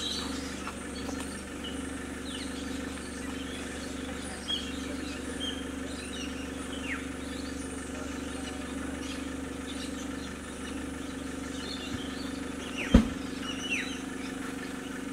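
Steady low hum of a car engine idling, with a few short, high chirps that fall in pitch, and one sharp knock near the end, the loudest sound.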